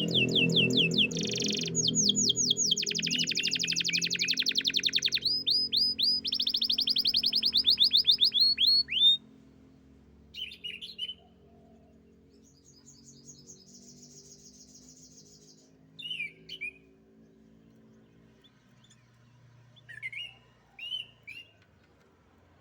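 Domestic canary singing: about nine seconds of loud, fast rolling trills of rapidly repeated notes, then sparse short chirps and a brief quieter buzzy trill.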